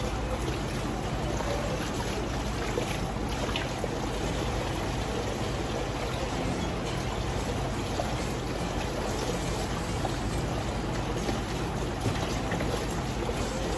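Water running steadily and splashing into a homemade dog bath while a small dog is wetted down.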